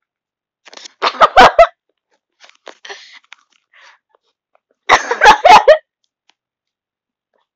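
Cat chattering at a fly it has spotted: two short bouts of rapid clicking chirps, about a second in and again near five seconds, with a few faint chirps between.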